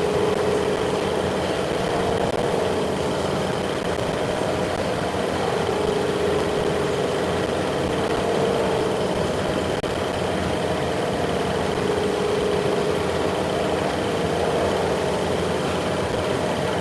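Machinery running steadily: a constant hum with a steady high whine above it.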